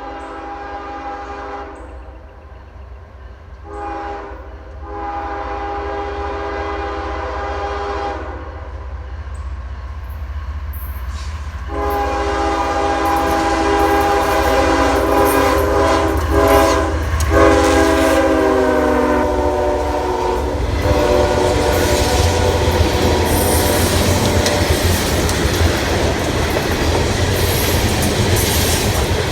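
Diesel freight locomotive's multi-note air horn sounding two shorter blasts and then a long one, the long blast dropping in pitch as the lead locomotive passes. Then the locomotives' engines rumble and the wheels clatter over the rail joints as the train goes by.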